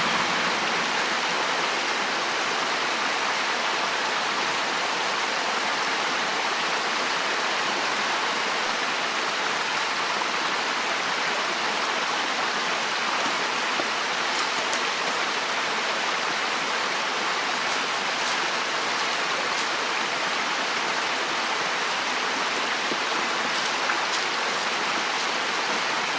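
Steady rushing of flowing water, constant throughout, with a few faint ticks.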